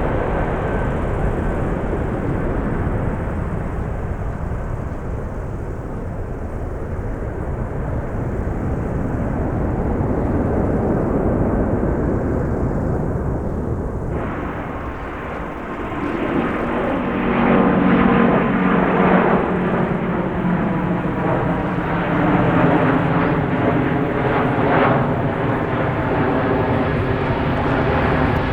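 Jet airliner engines roaring. About halfway through the sound changes abruptly, then grows louder with a steady whine of engine tones over the roar.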